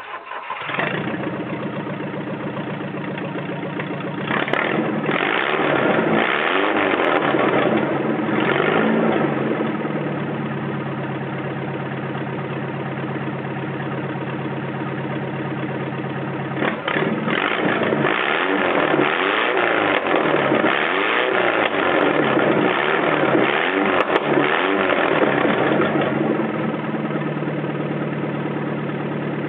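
Toyota 12R four-cylinder engine running with no exhaust fitted, catching right at the start and then idling open and loud. It is revved up and down a few seconds in and again after the middle, settling back to idle between and at the end.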